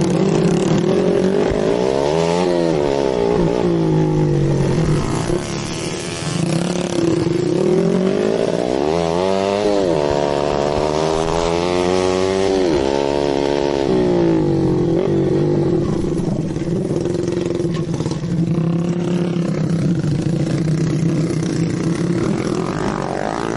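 Dirt bike engine running, its revs rising and falling several times, with the longest stretch of revving in the middle.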